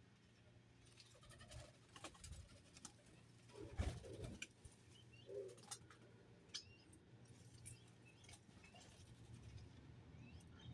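Doves cooing faintly a few times, with short high chirps of small birds and scattered sharp taps, the loudest about four seconds in.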